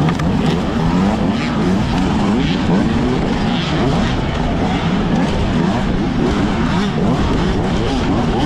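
Several gasoline dirt-bike engines running and revving together, their pitches wavering up and down over one another.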